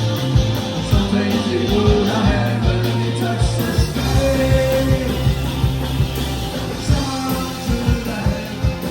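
Live band playing a fast rock song: guitars, bass and steady drum hits, with singing.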